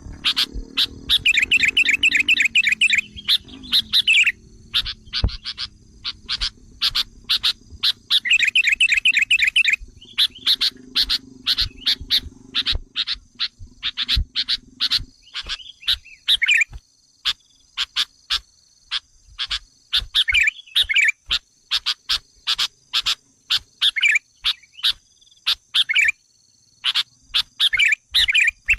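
Sooty-headed bulbul (kutilang) calls on a bird-lure recording: a rapid series of sharp, separate chirps, broken by fast chattering trills near the start and again about eight seconds in. A faint steady high tone runs underneath.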